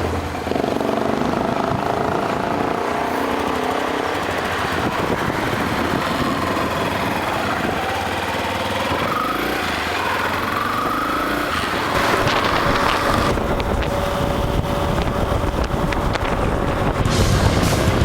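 250cc motorcycle engine running under way with wind and road noise, its revs rising and falling between about five and twelve seconds in, and pulling harder from about twelve seconds.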